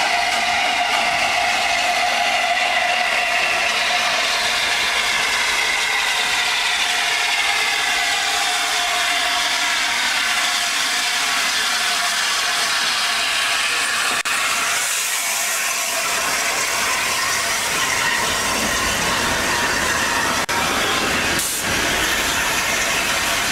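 Steady loud hiss of steam from the A1 Peppercorn steam locomotive 60163 Tornado, with faint tones sliding slowly downward through it and a couple of brief clicks near the end.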